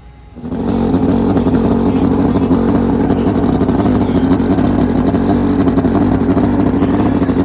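Turbocharged Pro Extreme drag bike engine running loud at high, steady revs, starting abruptly about half a second in.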